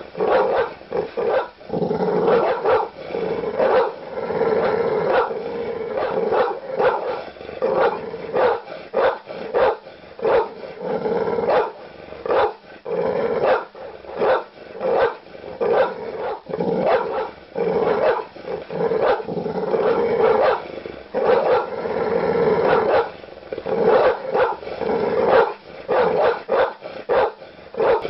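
Large dogs barking aggressively, with deep barks coming in rapid, nearly unbroken succession.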